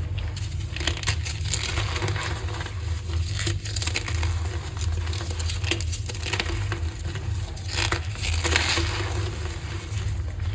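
Gym chalk being crushed, crumbling with bursts of crackling and squeaking that come and go, over a steady low hum.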